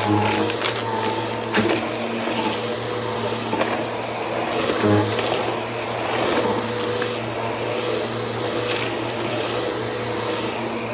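Bissell vacuum cleaner running steadily, pushed quickly back and forth, with a few brief knocks about one and a half and five seconds in.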